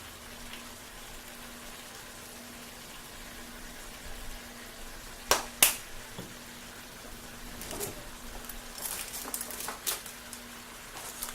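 Chicken drumsticks sizzling faintly in a pan of spiced oil, a steady low hiss. About halfway there are two sharp clicks close together, then a scatter of lighter clicks and taps.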